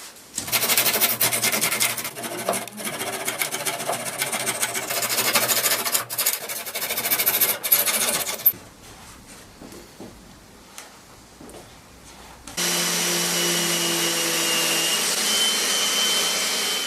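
Fast rasping strokes of a hand tool working wood for about eight seconds, then a few light knocks. Near the end a small power tool runs steadily.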